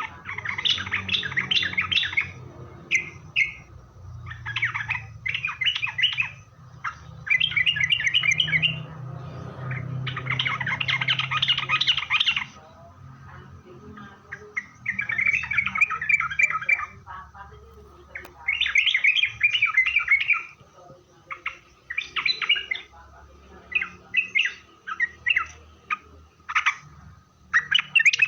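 Yellow-vented bulbul (trucukan) singing: repeated bubbly, chattering phrases of one to two seconds with short pauses between them. A faint steady tone runs underneath.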